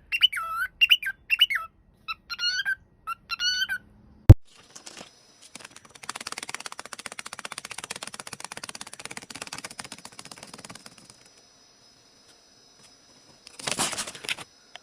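A small bird chirping in a quick series of short up-and-down calls, then one sharp click about four seconds in, followed by several seconds of fast, fine fluttering noise and a short burst of noise near the end.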